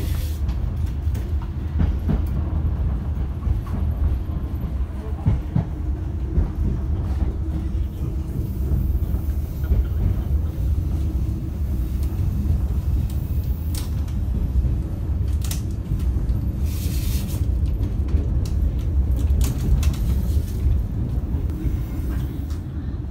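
Steady low running rumble of a moving economy-class passenger train heard from on board, with scattered sharp clicks and knocks from the wheels and coach. A brief hiss comes about three-quarters of the way through.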